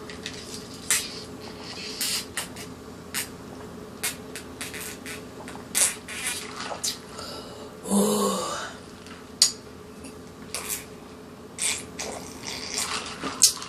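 A person gulping a drink in big sips close to the microphone: a string of short swallowing gulps, broken by one voiced breath out about eight seconds in.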